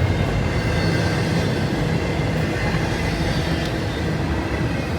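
Train rolling past: a steady, continuous rumble of railcar wheels on the track.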